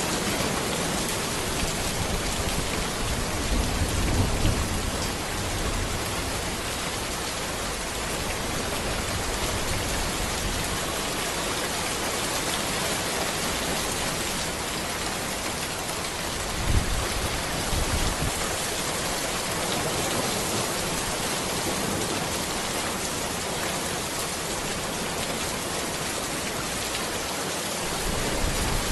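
Steady rain falling on a road and trees, an even, dense hiss. Brief low rumbles swell up about four seconds in and again around seventeen seconds.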